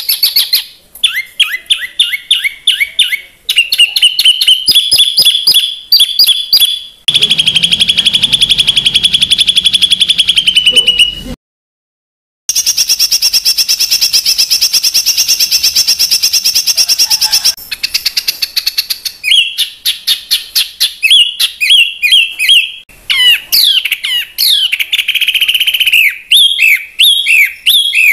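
Songbird song played for training competition birds: harsh, rapid-fire repeated phrases and fast rattling trills, with many short falling whistled notes. It breaks off for about a second of silence roughly eleven seconds in, then resumes.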